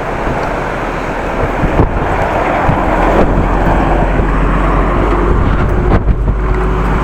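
Wind buffeting the microphone during a bicycle ride: a loud, steady rumble with harder gusts about two seconds in and again near six seconds.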